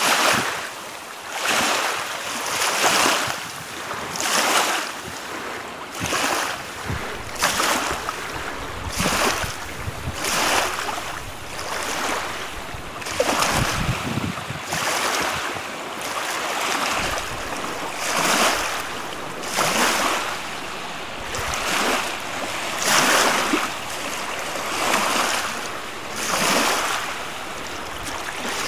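Wind-driven lake waves splashing, one rush of water about every second and a half, with wind blowing over it.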